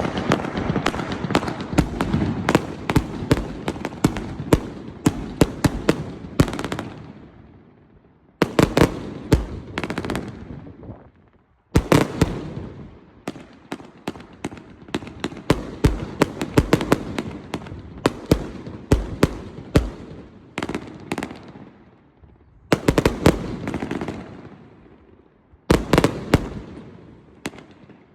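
An 86-shot fireworks cake firing: a long run of rapid pops and crackles in several waves, with short lulls between volleys about 8, 11, 22 and 25 seconds in.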